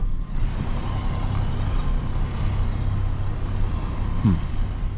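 Truck engine running steadily at low speed while reversing slowly, with a brief falling tone about four seconds in.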